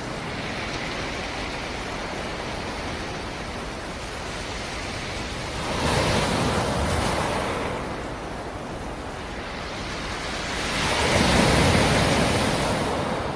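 Black Sea surf: a steady wash of waves, with two waves breaking and surging louder, one about six seconds in and a bigger one near the end.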